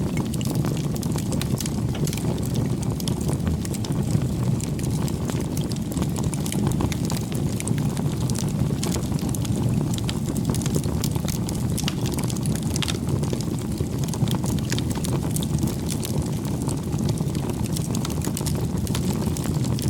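Wood bonfire crackling, with many small irregular pops and snaps over a steady low rumble.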